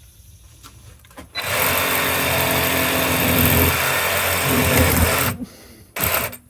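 Handheld power tool running for about four seconds, then a short second burst.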